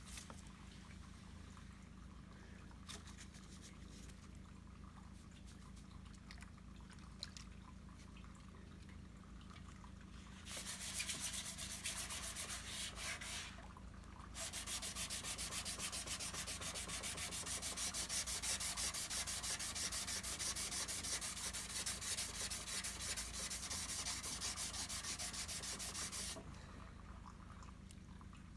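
Sandpaper dry-sanding cured body filler, a steady abrasive hiss. It starts about ten seconds in, runs for about three seconds, pauses briefly, then continues for about twelve seconds and stops shortly before the end. The first stretch holds only a few faint clicks.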